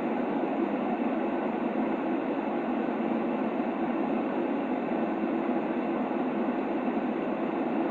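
Steady, unchanging white-noise sleep sound for a baby, filtered so that it sits in the middle range with no deep rumble and little high hiss.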